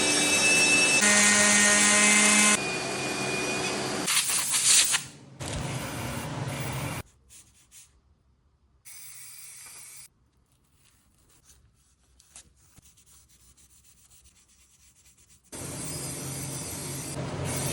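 Power tool sanding in several separate stretches. The first couple of seconds carry a steady whine under the rasping, and there are long near-silent gaps in the middle.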